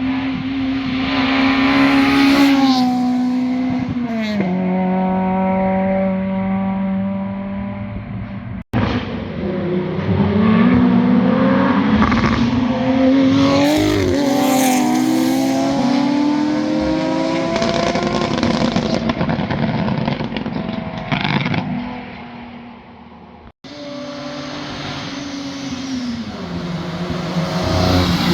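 Sports cars passing at speed, their exhaust notes rising under acceleration and stepping down in pitch. Three separate passes are cut together: a single car, then a busier stretch with several engines at once, then another single car.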